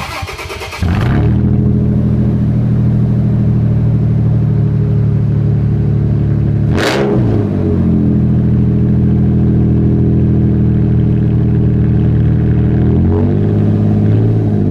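Straight-piped Toyota Tacoma exhaust, muffler replaced by a plain pipe with the stock catalytic converters kept. The engine starts and settles into a loud, deep idle. It gives a quick throttle blip about seven seconds in and the revs start climbing again near the end.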